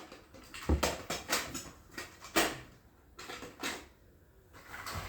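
Plastic toy cars and trucks knocking and clattering as they are handled, pushed and set down: several short sharp knocks, the loudest about a second and two and a half seconds in.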